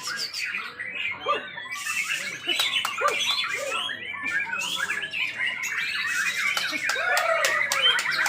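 Many caged songbirds singing at once on a row of contest hanging poles: a dense, overlapping chorus of rapid chirps, trills and squawks with no pause.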